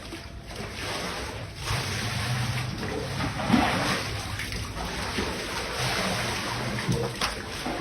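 Water splashing and rushing in a torrential downpour with flooding: a steady, loud noise that gets louder about two seconds in.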